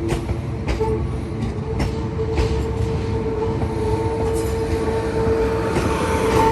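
Queensland Rail electric suburban train moving along the platform, with a steady high whine that grows louder near the end and irregular clicks of the wheels passing over rail joints.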